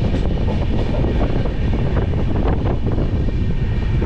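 Indian express passenger train running along the track: a steady loud rumble of the coach's wheels and running gear, with irregular rattles and clacks over it.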